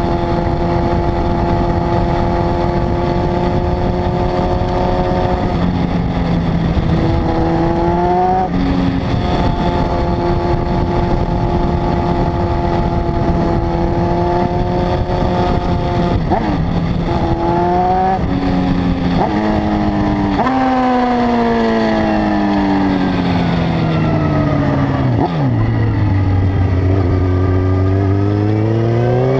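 Honda CB900F inline-four motorcycle engine under way, holding steady revs with quick gear changes about 8 seconds in and again around 16 to 19 seconds. From about 20 seconds the revs fall steadily down to a low, even speed, then climb again near the end as it accelerates.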